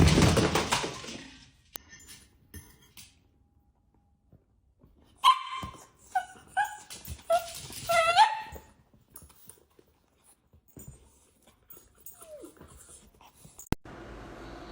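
A dog giving about five short, high-pitched yips in a row, some five to eight seconds in, after a loud rush of noise at the start.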